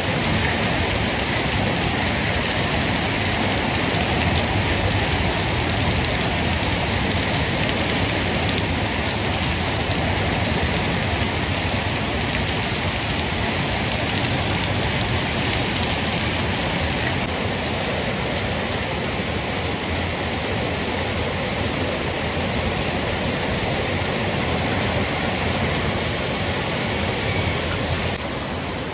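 Heavy rain pouring steadily onto paving, a dense, even hiss of drops and splashing, easing slightly just before the end.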